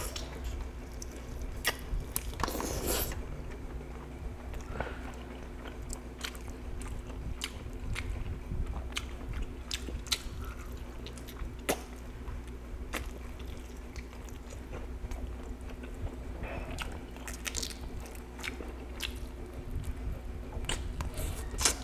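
A man chewing and biting roast chicken eaten by hand, with many short mouth clicks throughout, over a faint steady low hum.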